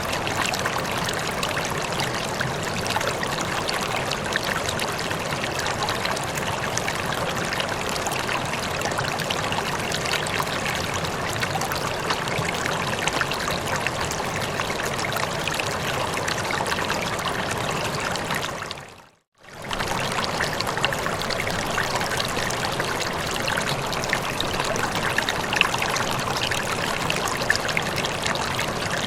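Running water flowing and trickling steadily, a continuous rushing with small splashes. About two-thirds of the way through it fades to silence for a moment and comes straight back.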